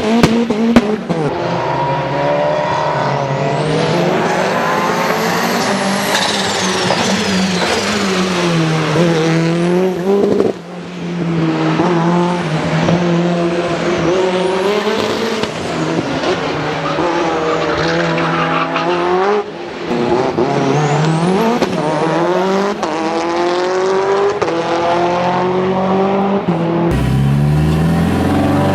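High-revving four-cylinder car engine under hard acceleration, its pitch climbing and dropping back again and again through gear changes, with a couple of brief lifts off the throttle. Shortly before the end the sound changes abruptly to another engine note.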